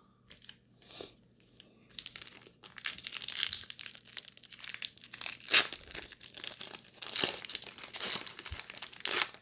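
Plastic wrapper of a trading-card pack crinkling and being torn open. The dense crackling starts about two seconds in, with a sharper crackle a little past the middle.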